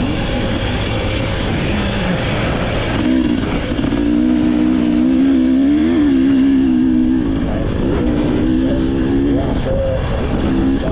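Dirt bike engine running under throttle. Its pitch rises about three seconds in, holds fairly steady with small rises and falls, and drops off briefly near the end.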